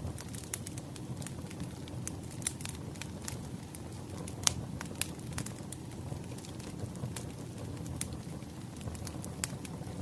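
Wood fire crackling: irregular sharp pops and snaps over a steady low rumble, with one louder snap about halfway through.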